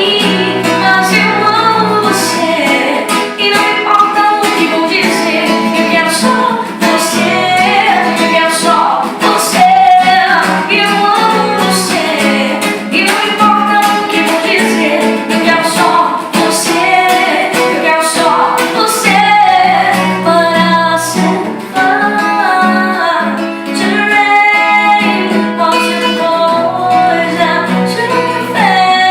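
A woman singing a pop ballad live, accompanied by a strummed guitar.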